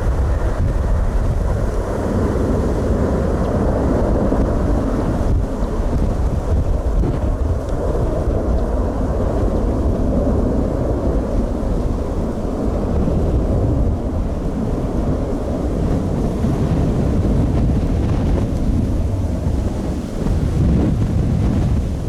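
Strong storm wind buffeting the microphone, a loud, steady low rumble with no let-up.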